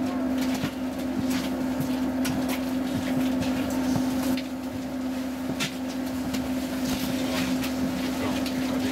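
Inside the passenger cabin of a Roslagsbanan X10p commuter train standing still at a platform: a steady hum from the train, with scattered light clicks and knocks.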